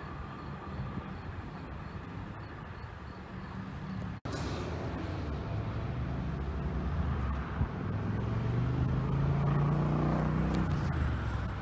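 Low rumble of an approaching train, broken by an abrupt cut about four seconds in; after the cut a low humming rumble builds steadily louder as another train draws nearer.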